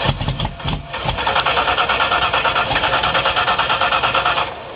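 The Mini drag car's engine turning over with a fast, even mechanical clatter that cuts off suddenly near the end.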